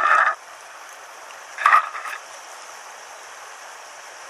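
Small rocky stream running steadily, an even rush of water, with two short louder sounds in the first two seconds.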